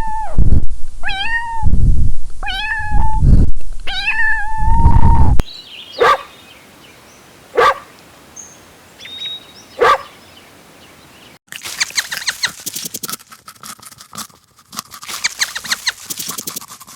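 A cat meowing four times in quick succession. This is followed by three short, sharp calls a couple of seconds apart, and from about two-thirds of the way in, a dense rapid clucking.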